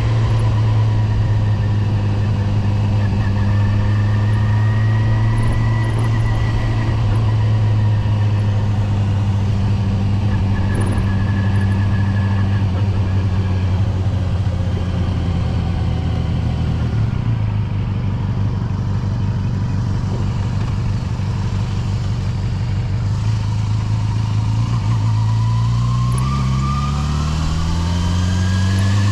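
Yamaha FZR250's inline-four engine running at a steady pitch while riding, easing off a little about halfway through, then revving up with a rising pitch over the last few seconds.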